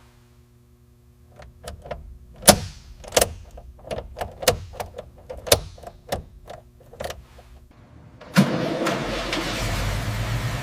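A series of sharp clicks and knocks, then about two-thirds of the way in the Corvette C3's V8 engine starts suddenly and runs steadily.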